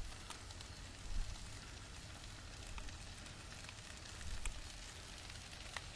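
Chicken sizzling on a grill: a steady hiss with scattered crackles and pops.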